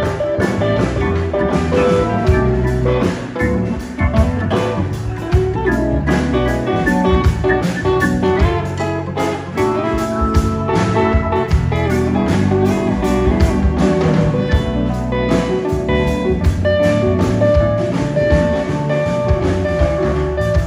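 Live blues band playing, guitar to the fore over drums, bass and keyboard.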